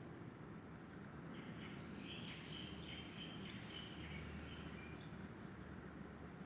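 Faint bird chirps, a run of short high notes from about a second in until near the end, over a low steady rumble of background noise.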